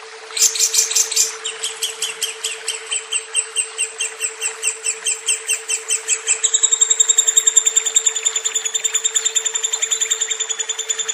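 Lovebird singing a long unbroken chatter of rapid, high, evenly repeated chirps that quickens about six seconds in. A steady low hum runs underneath.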